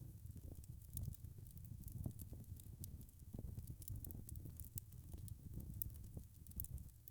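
Wood fire burning in a fireplace: a steady low rumble with many small, irregular crackles and pops from the burning logs.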